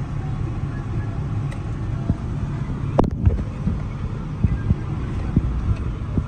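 Honda B18C 1.8-litre four-cylinder engine idling steadily at about 1,000 rpm through an aftermarket exhaust, heard from inside the cabin. A few light knocks sound over it, the sharpest about three seconds in.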